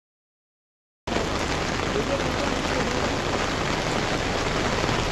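Heavy rain falling, a steady even hiss that starts suddenly about a second in, after a second of silence.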